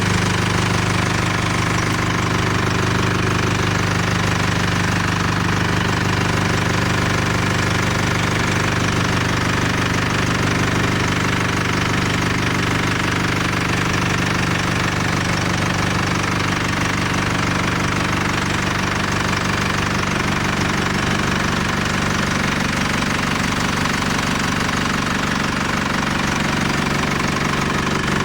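Mercedes-Benz B 180 CDI's four-cylinder common-rail diesel engine idling steadily, with a typical diesel clatter.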